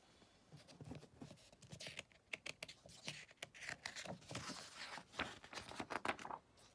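A book's paper pages being handled and turned: a run of light, irregular taps and soft rustles.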